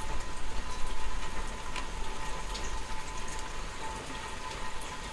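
Steady summer rain falling on grass and trees, with scattered nearby drops ticking.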